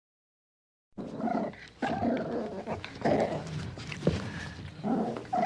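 An animal calling repeatedly in short, loud bouts, starting about a second in after silence.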